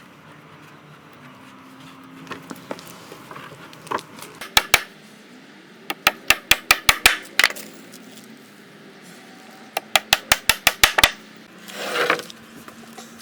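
Hammer driving nails into macrocarpa boards: two blows, then two fast runs of sharp strikes at about five a second. Near the end there is a short scraping knock as a board is shifted.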